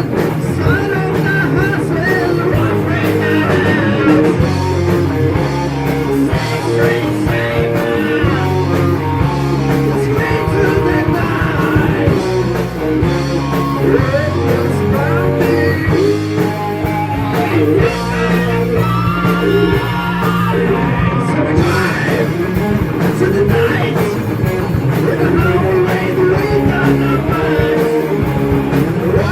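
Heavy metal band playing: electric guitars, bass and drums, with a singer.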